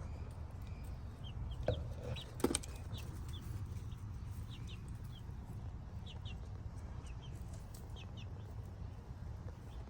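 Backyard chicks peeping in short, high chirps, often in quick pairs, repeating all through. Two sharp knocks come at about two seconds in, over a steady low rumble.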